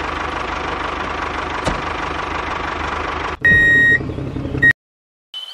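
Small engine running steadily with an even, rapid low pulse. Near the end it cuts to a high steady beep-like tone lasting about a second.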